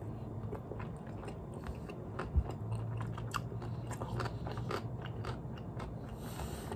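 Close-up chewing of a mouthful of rice, beef and vegetables: small wet clicks and crunches over a low steady hum, with one sharper thump about two and a half seconds in.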